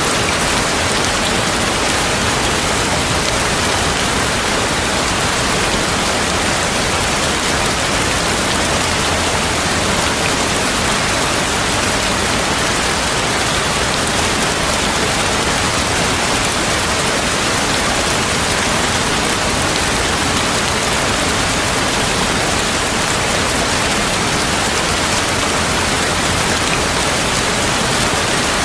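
Steady heavy rain falling, an even hiss that does not rise or fall.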